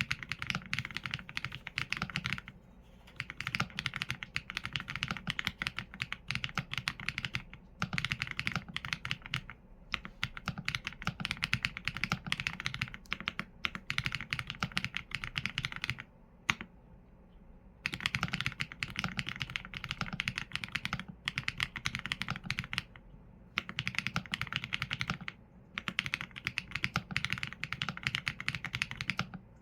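Typing on a Qsenn A75 mechanical keyboard with Leobog Graywood V4 linear switches and PBT keycaps: fast runs of keystrokes broken by short pauses. The longest pause comes about two-thirds of the way through and holds a single keystroke.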